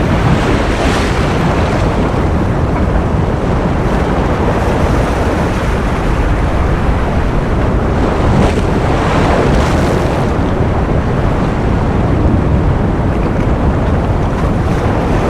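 Continuous ocean surf: a dense, steady rush of water noise, heaviest in the low end, with a few brighter swells of breaking waves about a second in and again around the middle.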